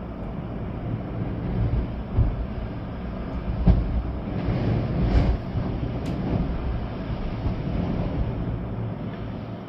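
Storm wind gusting through trees, with rain, a steady low rumble that swells in stronger gusts about four and five seconds in.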